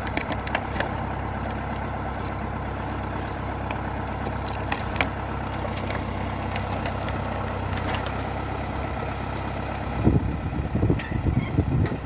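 Valmet 705 tractor's diesel engine running steadily, with scattered light knocks. About ten seconds in, louder irregular low rumbling bursts come in over the engine.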